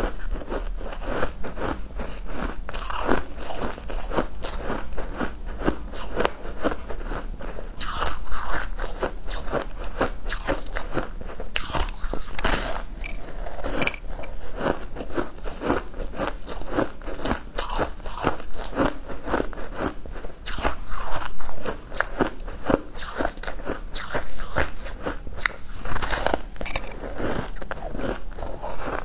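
A person biting and chewing a crunchy, crystalline pink-and-purple block: continuous dense crunching and crackling, with louder bites now and then.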